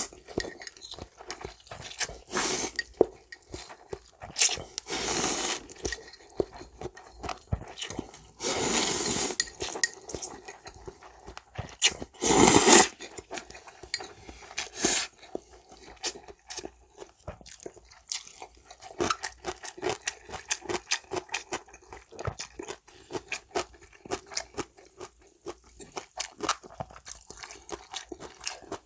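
Close-up eating of janchi guksu, thin somyeon noodles in broth: four or five loud slurps in the first half, each lasting about half a second to a second. Between the slurps and through the second half there is steady chewing with many short, crunchy clicks.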